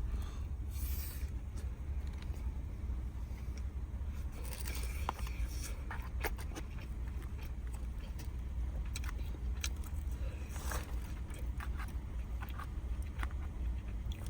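Scattered short scraping and clicking handling sounds over a steady low rumble.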